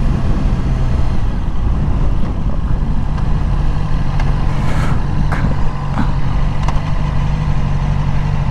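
2020 Yamaha R6's 599 cc inline-four engine running steadily at constant revs, with no revving or gear changes.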